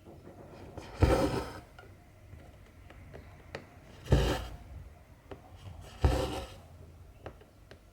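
Cotton embroidery thread pulled through cross-stitch fabric: three rasping swishes, about a second in, near four seconds and near six seconds, with small clicks between them.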